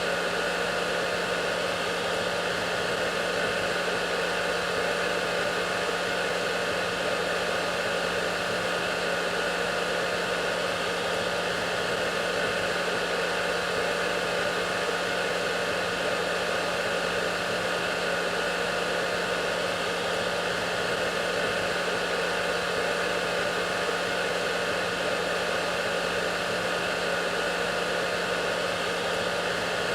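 Hair dryer running steadily: an even rushing hiss of air with a constant low motor hum and a few faint steady whining tones.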